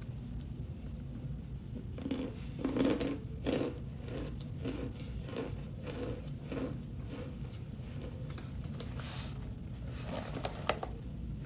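A person bites into a chunk of cornstarch, with a loud crunch a couple of seconds in, then chews it in a steady rhythm of about two crunchy chews a second.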